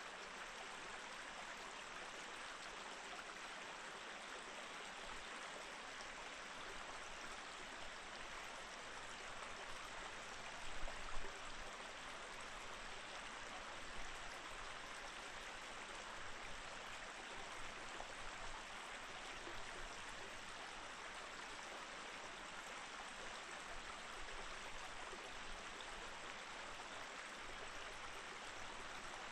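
Snow-edged mountain stream flowing steadily over rocks, a constant rushing of water. A few brief low bumps stand out about a third of the way in and again about halfway.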